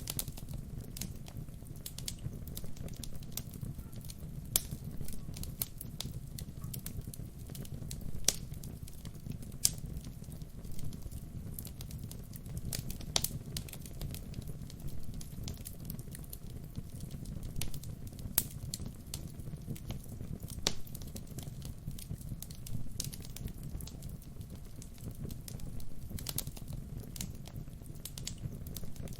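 Wood fire burning, with a steady low rumble of flames and irregular crackles and sharp pops from the burning logs, a few pops louder than the rest.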